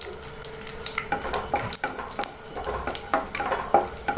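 Chopped cashew nuts sizzling softly in hot ghee in a pan. From about a second in, a wooden spatula stirs them, giving a string of light knocks and scrapes against the pan.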